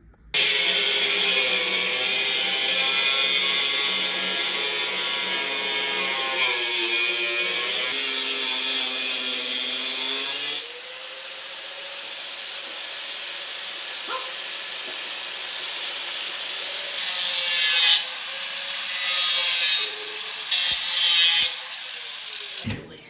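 Angle grinder cutting the metal mounting tabs off an exhaust fan housing. The motor starts suddenly, its pitch sags under load, and louder bursts of grinding come near the end before it shuts off and winds down.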